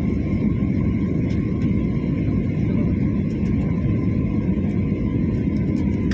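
Airliner cabin noise: a steady low roar of the jet engines and airflow, with faint steady tones above it.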